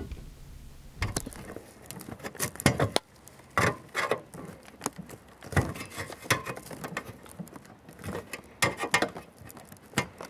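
Needle-nose pliers clicking and scraping on a thin steel door-panel hanger strip as its pressed-out triangular teeth are bent back straight: irregular small metallic clicks and taps.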